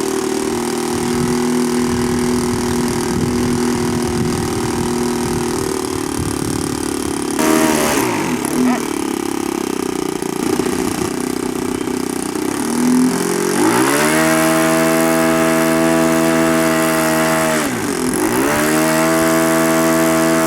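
A radio-control model airplane engine running and being throttled: steady at first, then sweeping down and up in pitch. About two-thirds of the way through it climbs to a high steady run, dips briefly near the end and comes back up.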